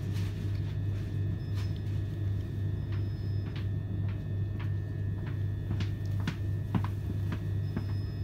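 Steady low hum inside the carriage of a c2c electric passenger train as it runs slowly along a station platform, with scattered light clicks and knocks.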